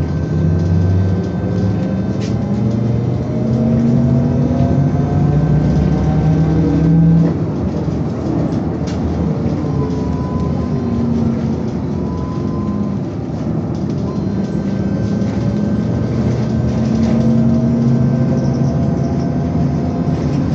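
Electric traction drive of a BKM-221 trolleybus, heard from inside the cabin, whining up in pitch as the vehicle accelerates. It eases off about seven seconds in, then whines upward again in the second half.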